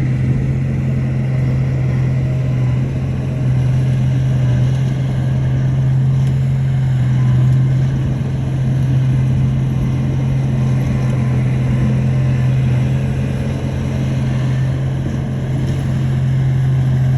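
Heavy diesel engine of earthmoving machinery running steadily, a constant low drone with little change in speed.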